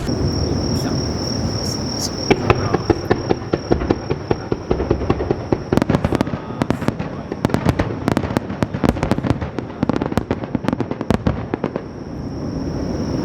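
Sea-surface detonating fireworks bursting over the water: a rapid run of sharp cracks and crackling reports over a low rumble, densest in the middle, dying down near the end. A steady high-pitched whine runs beneath at the start and returns near the end.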